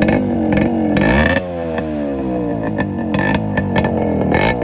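Yamaha RX100's two-stroke single-cylinder engine revved up and down again and again with the silencer's baffle mesh removed, very loud, with sharp pops from the exhaust.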